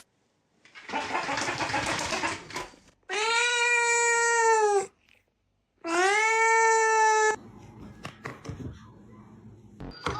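A cat hisses, then gives two long, drawn-out yowls of steady pitch, each lasting more than a second. The sounds are those of an agitated, defensive cat.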